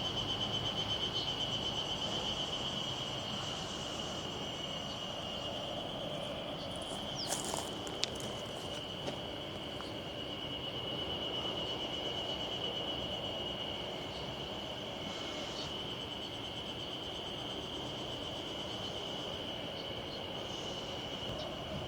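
Insect trilling steadily in a high, finely pulsing tone over faint outdoor background noise, with a couple of brief clicks about a third of the way in.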